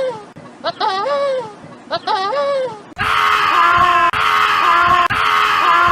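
Goats bleating: three alike wavering calls about a second apart. About halfway through they give way suddenly to louder, higher, scream-like bleats that break off roughly once a second.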